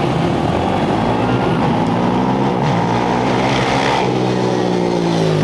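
Off-road racing motorcycle engine running and revving, its pitch rising and falling.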